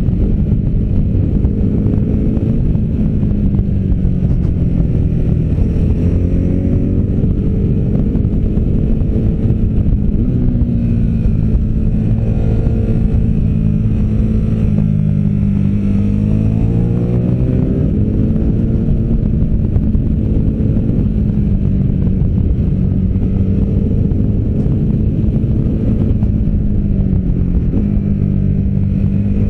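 V-twin adventure motorcycle engine under way, its revs rising and falling several times as the rider accelerates and eases off.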